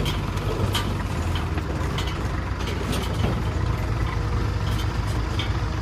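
Heavy diesel engine running steadily at a low, even speed, with a few short clanks and knocks scattered through it.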